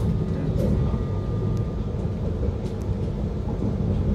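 Italo high-speed train running along the tracks, heard from inside the passenger car as a steady low rumble with a faint thin whine above it.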